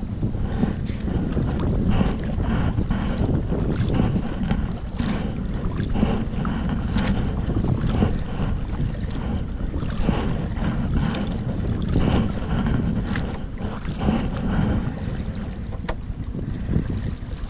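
Wind buffeting the camera microphone in a steady low rumble, over water splashing at a kayak roughly once a second.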